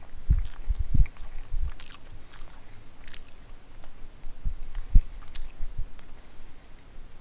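A person chewing a mouthful of sub sandwich with the mouth closed: irregular wet clicks and smacks over soft low thumps, loudest about a second in and again near five seconds.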